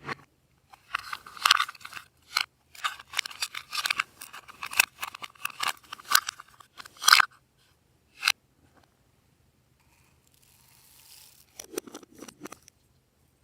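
Glossy slime being squished and pulled by hand, a rapid run of crackling, popping clicks for about six seconds, then a softer, lower squelch near the end.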